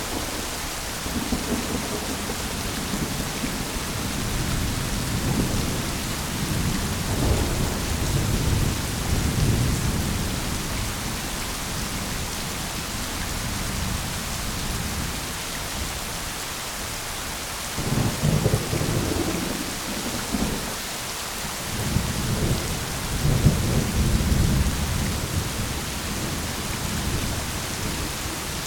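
Steady heavy rain with rolling thunder rumbling in low swells that come and go, the strongest rumbles in the second half.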